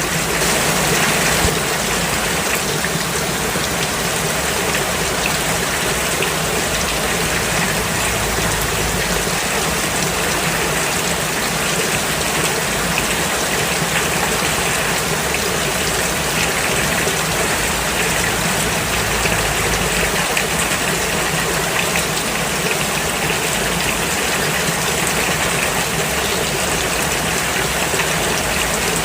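Steady rain falling, an even hiss with no let-up and no single drops or gusts standing out.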